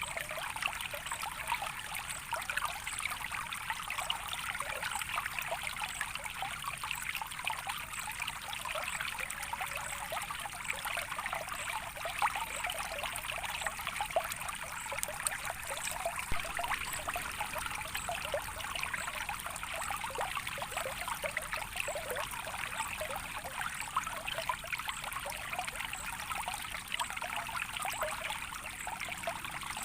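A small stream of water trickling and babbling steadily, a constant even rush without pauses or changes.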